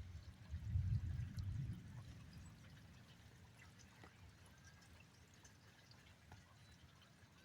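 Distant thunder: a low rumble that swells about a second in and dies away over the next second. Faint scattered ticks of rain dripping continue behind it.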